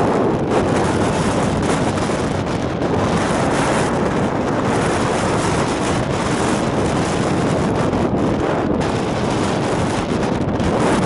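Strong wind blowing over the microphone: a loud, steady rush of low noise that swells slightly in gusts.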